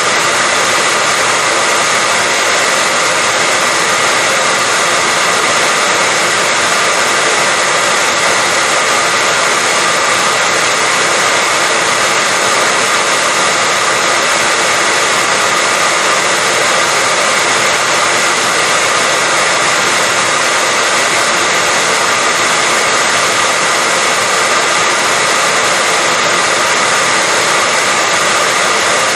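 Hair dryer running steadily, a constant loud rushing blow with a faint whine.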